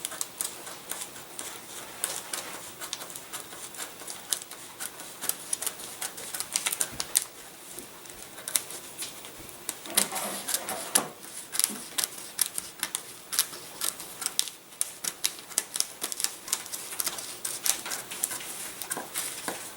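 Self-adhesive plastic covering film being cut out by hand, a long run of quick irregular clicks and crackles from the blade and the stiff film.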